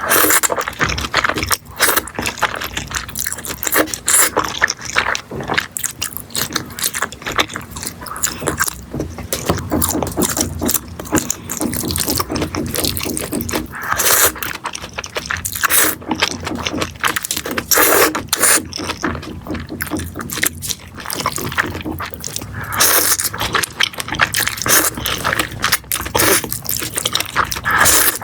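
A person slurping and chewing mixed noodles, wet irregular slurps and mouth sounds one after another with no pause.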